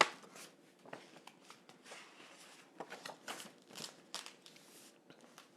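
Faint, scattered rustling and crinkling of a picture book being handled as its pages are turned.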